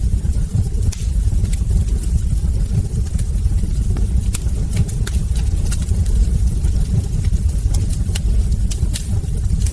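Wood fire burning in a hearth: a steady low rumble of flame with scattered sharp crackles and pops from the burning logs, roughly one or two a second.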